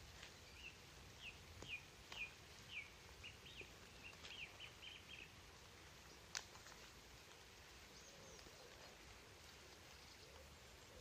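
Faint background noise with a bird chirping: a quick run of short high chirps through the first five seconds. A single sharp click, the loudest sound, comes a little past the middle.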